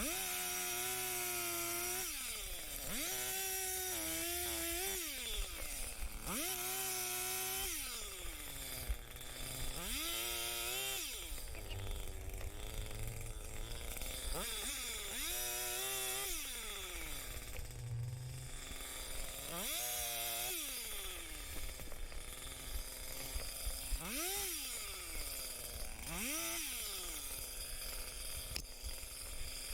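Chainsaw revving up and cutting in short bursts, about every three seconds, dropping back to idle between cuts, as it cuts up brush and limbs.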